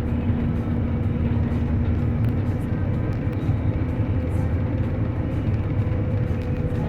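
A motor vehicle driving: steady engine drone with a constant hum and low road rumble, no change in speed.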